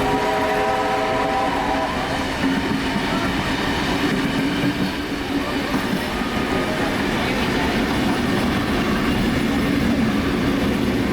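Steam locomotive whistle sounding once for about two seconds, over the continuous running rumble and clickety-clack of a moving train's carriages on the rails.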